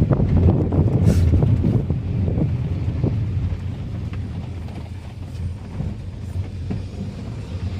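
Low rumble of a car driving with wind buffeting the microphone, loudest in the first two seconds and then fading.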